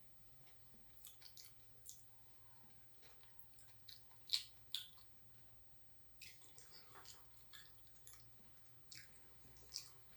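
Close-up eating sounds: soft wet chewing with scattered lip smacks and mouth clicks, the loudest pair about four and a half seconds in.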